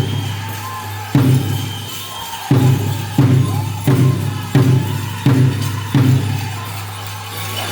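Powwow drum group striking a large bass drum, about eight hard beats mostly under a second apart, with bells jingling over a steady low hum.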